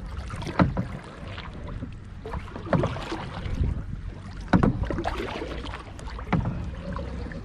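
Kayak moving through water: sharp splashing strokes about every two seconds over a steady low rumble.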